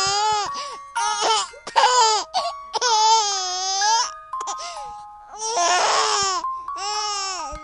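A baby crying in about six high-pitched wails of half a second to a second each, over a tinkling music-box or glockenspiel tune.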